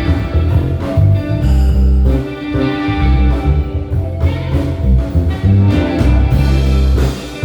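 A live band playing instrumental jazz, with bass, drums and keys under a melody line.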